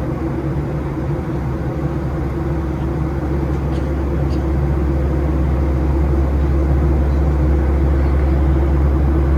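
Steady drone of a Boeing 737-700's cabin in flight: engine hum and airflow noise, deep and constant, growing slightly louder about halfway through.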